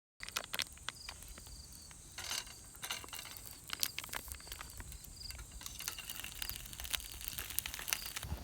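Wood campfire crackling with irregular sharp pops, over a steady high insect drone with short chirps repeating every second or so.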